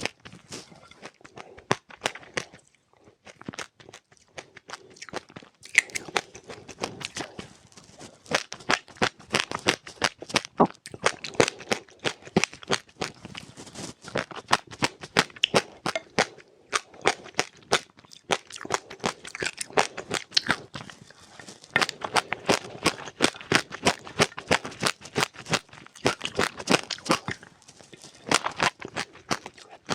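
Close-up crunching of seeds being chewed: rapid, irregular crisp crackles several times a second, pausing briefly twice.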